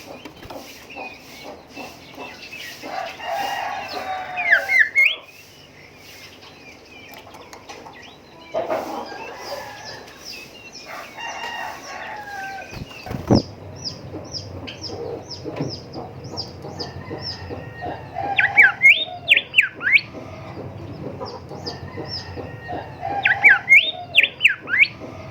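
Golden whistler singing: bursts of rapid, steeply rising and falling whistled notes, three times, with longer, lower drawn-out calls and short high chirps in between.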